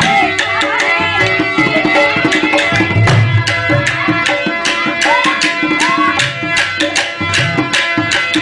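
Instrumental passage of a Rajasthani folk song: a drum beats a quick, steady rhythm under held melody notes, with a few short sliding phrases.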